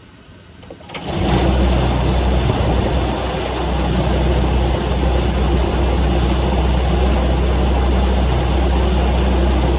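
A motor starts suddenly about a second in and runs on loud and steady with a deep hum.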